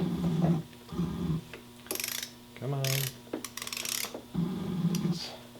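Ratcheting torque wrench and socket clicking and rattling in short spurts as it is worked onto a motorcycle gearbox drain plug that it won't seat on easily.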